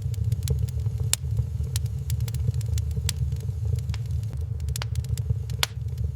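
Wood fire crackling in a fireplace: irregular sharp pops and snaps, a few each second, with louder pops about a second in and near the end. Beneath them runs a steady low rumble, the loudest part of the sound.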